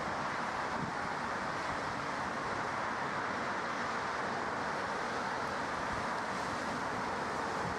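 Steady rushing roar of jet aircraft engines, even throughout with no rise or fall.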